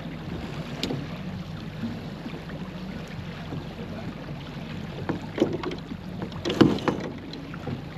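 Sailboat under way: steady rush of water along the hull and wind, with a few sharp knocks from gear aboard about five and a half and six and a half seconds in.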